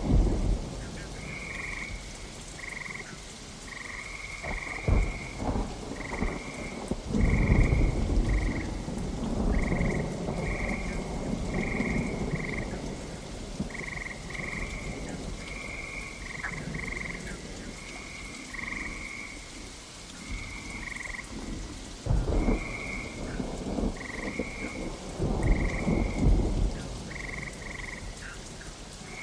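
Steady rain with several rolls of thunder rumbling in and out, the heaviest a few seconds in and again near the end. Over it, frogs croak in short repeated calls, about one a second.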